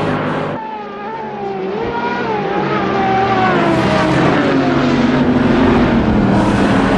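High-performance car engine under hard driving on a race circuit. Its pitch falls and rises with throttle and gear changes, dipping about a second in, then growing louder.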